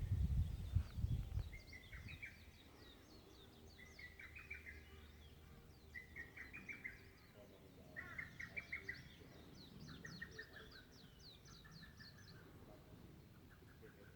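Songbirds singing: one repeats a short trilled phrase every second or two, and another overlays quick high notes. A low rumble is loudest in the first second or so, then fades.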